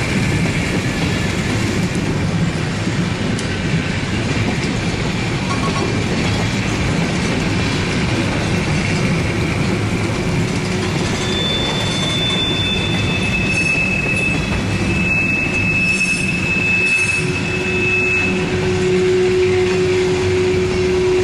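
Railroad train sound: a steady run of rolling cars, with high wheel squeals partway through and a lower steady tone near the end.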